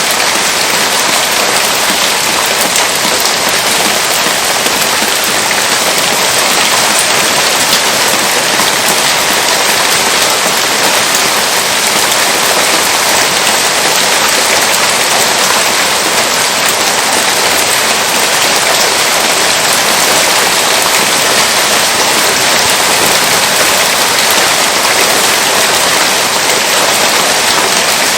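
Heavy rain falling steadily: a loud, dense, even hiss of drops.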